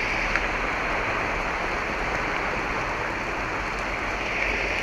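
Heavy downpour of rain, a steady dense hiss.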